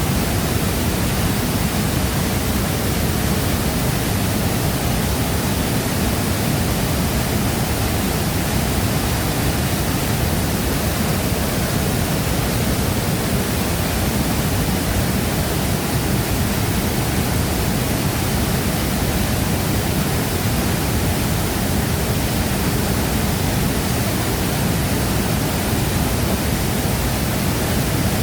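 Waterfall: water crashing down in a steady, even rush with a deep low rumble under the hiss, unchanging throughout.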